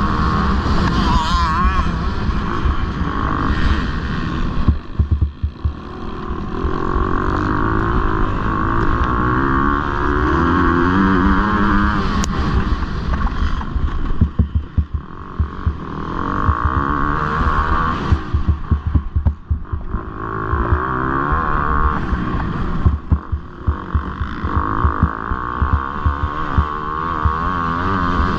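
Motocross bike engine racing, revving up in rising sweeps and easing off, with short throttle cuts several times.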